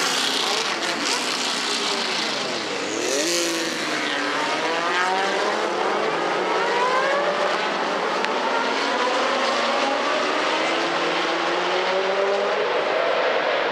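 Historic racing car engines at full throttle. One car passes close about three seconds in, its pitch dropping as it goes by, then engines rise through the gears in repeated upward sweeps.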